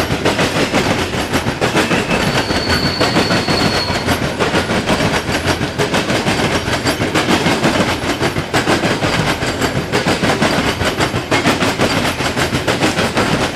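Norfolk Southern freight train cars rolling past at close range, their wheels clicking rapidly and steadily over the rail joints. A short, high wheel squeal sounds about two seconds in.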